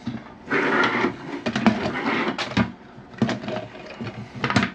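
Plastic parts of a new toilet fill valve being handled: rustling with many small clicks and knocks, in two stretches and then a few separate clicks near the end.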